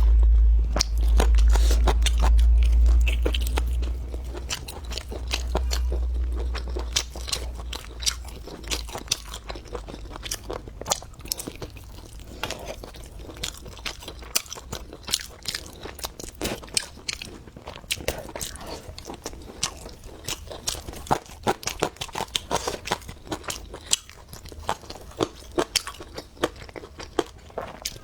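Close-miked mukbang eating: a person biting and chewing crunchy food, with many irregular sharp crunches. A deep low rumble sits under the first few seconds and fades out by about nine seconds in.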